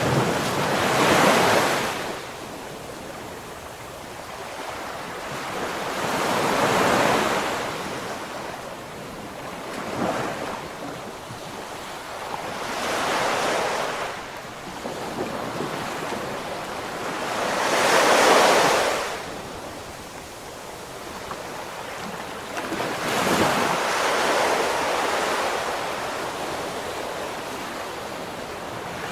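Ocean waves breaking on the shore, surf surging and washing back in slow swells about every five to six seconds, with some wind on the microphone.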